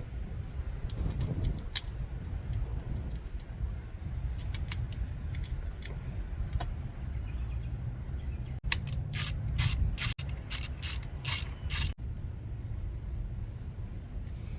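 Ratchet wrench clicking as the fuel rail pressure sensor is fastened on the engine. Small taps and clicks come first, then a quick run of sharp ratchet clicks past the halfway point, over a steady low rumble.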